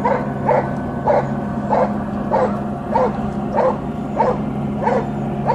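A dog barking repeatedly at an even pace, about ten barks at a little under two a second, over a steady low hum.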